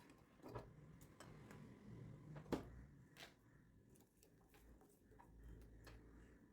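Near silence with a few faint clicks and taps, one sharper click about two and a half seconds in.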